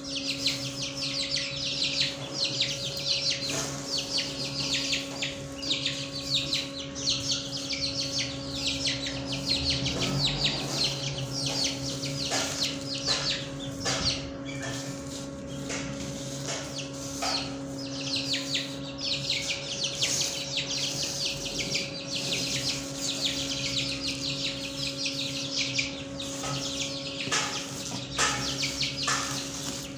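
Many small caged birds chirping and twittering busily all at once, a dense run of quick high calls, over a steady low hum.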